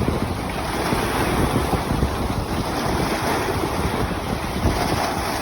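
Ocean waves washing, with wind buffeting the microphone in a steady gusty rumble.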